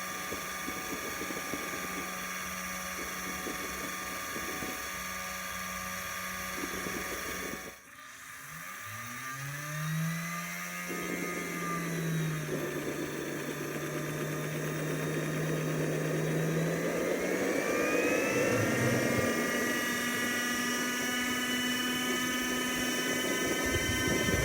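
JetCentral model turboprop turbine running with a steady high whine, which breaks off about eight seconds in. It then winds up again: the whine rises in pitch, holds, and climbs a second time to a higher, louder steady whine near the end as the turbine spools up.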